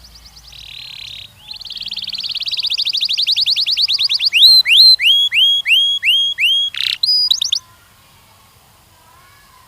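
Canary singing: a short buzzy note, then a fast trill that grows steadily louder, then a run of about eight clear downward-slurring whistles and a few quick notes. The song stops about three-quarters of the way through.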